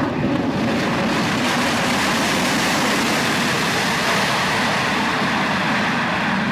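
Aircraft engines running loud and steady, a dense rushing noise with no break.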